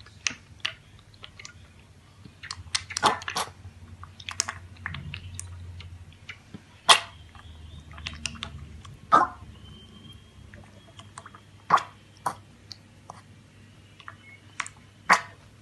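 An animal chewing: irregular sharp crunches and clicks at uneven intervals, some in quick clusters.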